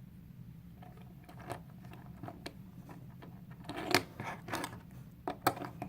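Scattered small clicks and clatter of plastic LEGO pieces being handled and pressed onto a model, a few louder clicks in the second half.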